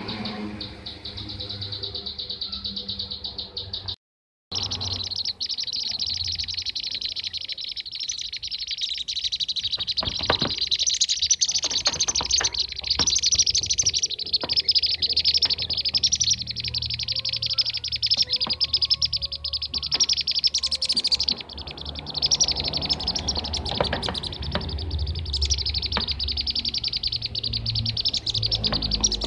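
A flock of bee-eaters (kirik-kirik) calling in a dense, unbroken stream of rapid high chirps, a recording used as a lure. The sound cuts out for about half a second about four seconds in.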